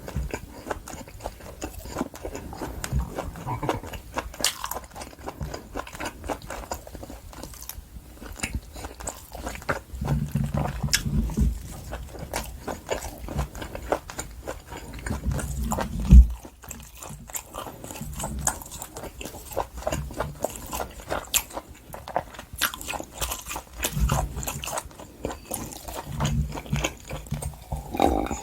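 Close-miked chewing of wagyu top blade steak, with wet mouth clicks and smacks throughout. One sharp knock about sixteen seconds in is the loudest sound.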